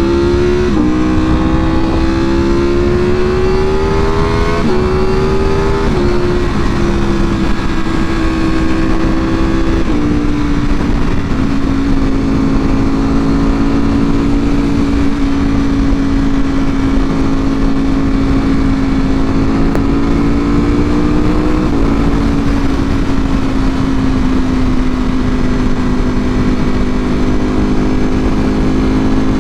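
A 2024 Ducati Panigale V4R's V4 engine through an Akrapovič full exhaust, pulling and shifting up: the engine note climbs and then drops sharply at each shift about 1, 5, 6 and 10 seconds in. After that the bike cruises at steady revs, with a slight rise and another shift about 22 seconds in. Steady wind noise runs underneath.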